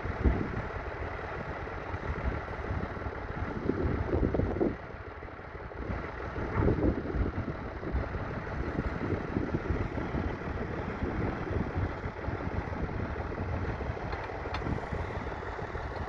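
McCormick International B275 tractor's 2.3-litre four-cylinder diesel engine running steadily as it works with a plough, swelling louder twice, about four and about seven seconds in.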